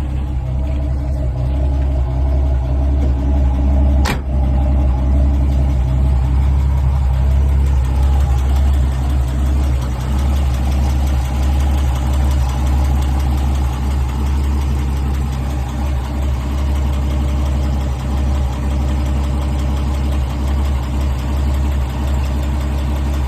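1960 International B130 truck's engine idling steadily on a cold first start of the spring, its choke partly pushed in. A single sharp click sounds about four seconds in.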